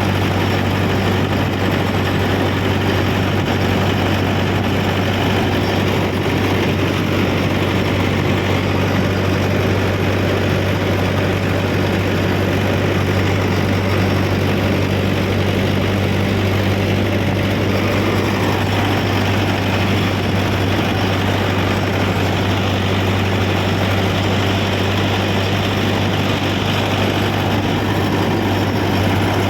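Mahindra tractor's diesel engine running at a steady speed, a constant low hum with no revving.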